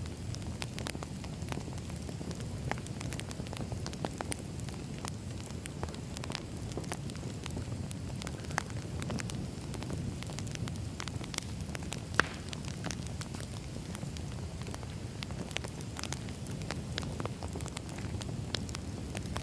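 Campfire crackling, with scattered sharp pops over a steady low rumble; one pop about twelve seconds in is louder than the rest.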